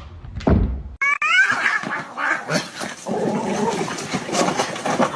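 A low thump about half a second in; then, after a sudden cut, a short cat meow that rises and falls, followed by dense, busy noise.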